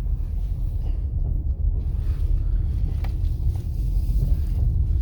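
Steady low rumble of a vehicle driving slowly on a dirt road, heard from inside the cabin.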